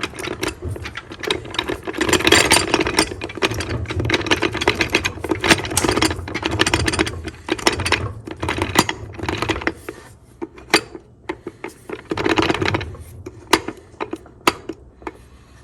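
Metal TH400 transmission parts rattling and clinking as they are jiggled and worked into line by hand, with a quick run of clicks and several sharper separate clicks toward the end.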